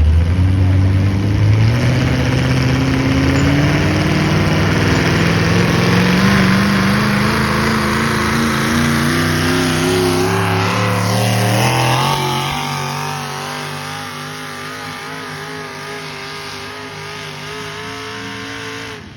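Engine of a pulling vehicle working under load, its pitch climbing steadily for about twelve seconds, then dropping and settling to a lower, quieter steady run. The sound cuts off suddenly at the end.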